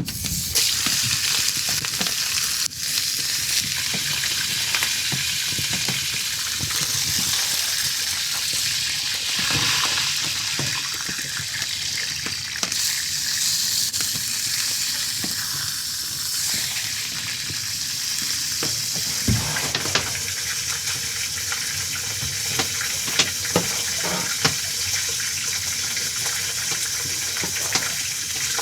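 Food sizzling in a hot frying pan: a steady frying hiss with frequent small pops and spits of fat.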